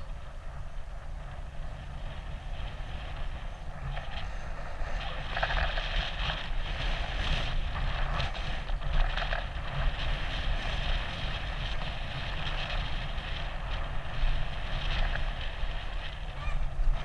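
Wind buffeting an action camera's microphone over the rumble of a bicycle ride, with a rougher, scratchier noise that grows louder about five seconds in.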